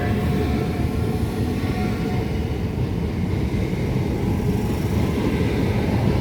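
Southeastern Class 465 Networker electric multiple unit running past as it departs, a steady loud rumble.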